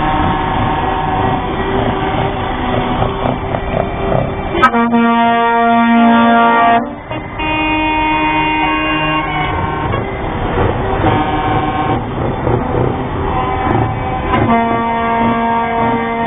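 Lorry air horns sounding over a steady rumble of engines. A long, loud blast starts about four and a half seconds in and stops abruptly about two seconds later. Another horn follows at a different pitch, and a further long blast begins near the end.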